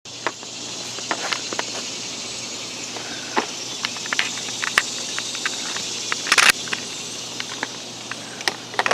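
Outdoor ambience: a steady high hiss with scattered crackles and clicks, and one louder scraping burst about six seconds in.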